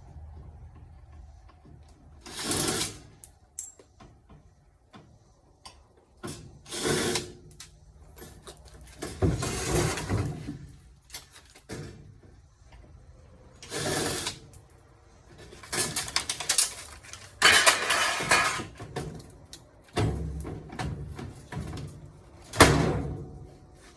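Tools working on a washing machine's metal parts during disassembly: a series of separate scrapes and clanks, each a second or two long, with short pauses between them.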